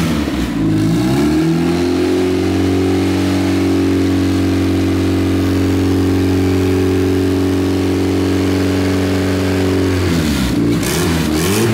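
Honda K24 inline-four engine swapped into a Nissan 350z, revved in quick blips, then held at a steady rpm for about eight seconds, then blipped again near the end.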